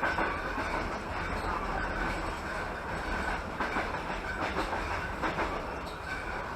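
Passenger train running along the track, heard from inside the carriage: a steady rumble and rattle of the wheels on the rails, with a few sharp clicks over rail joints in the middle.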